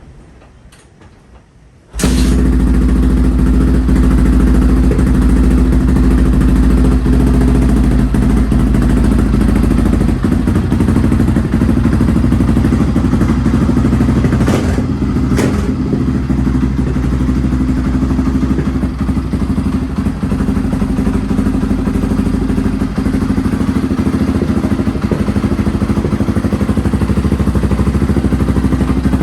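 Honda XR650R dirt bike's big single-cylinder four-stroke engine running steadily, coming in suddenly about two seconds in after a few faint clicks. It is the bike's first run in years, got going in the cold only after its inlet manifold was warmed.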